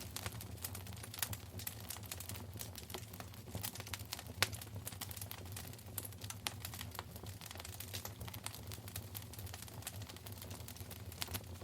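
Wood fire in a fireplace crackling: dense, irregular pops and snaps over a low steady rumble, with one sharper pop about four seconds in.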